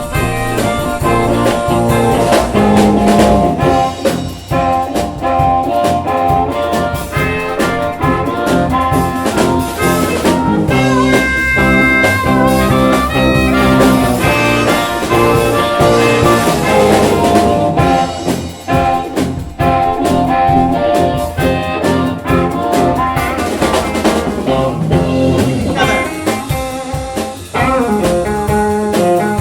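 Live blues band playing an instrumental break, with no singing.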